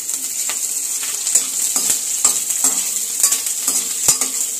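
Peanuts, cumin seeds and freshly added green chillies sizzling steadily in ghee in a stainless steel kadai. A perforated steel skimmer stirs them, with irregular clicks and scrapes against the pan.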